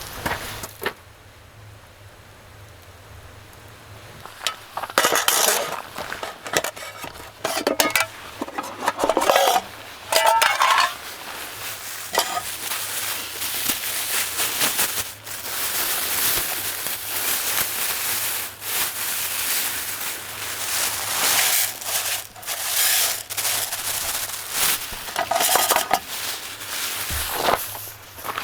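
Camp cookware and utensils clinking, scraping and rubbing in irregular bursts, with a steady hissing sound through the second half.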